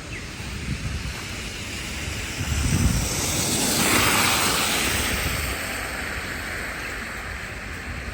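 A vehicle passing on a snowy street: the hiss of its tyres through slush swells to a peak about four seconds in and then fades away.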